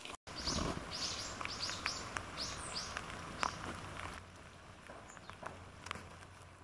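Small songbirds calling: a quick run of about eight short, high chirps starting about half a second in, then scattered ticks over a steady low outdoor background.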